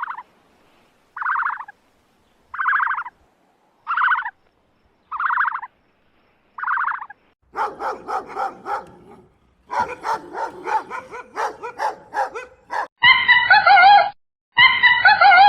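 A dog barking about six times at an even pace of roughly one bark a second. About halfway through it gives way to a busy jumble of short calls from other animals, and near the end come long calls with a wavering pitch.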